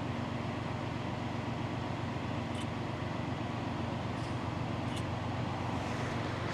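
Steady low hum of an idling vehicle engine with a few faint clicks.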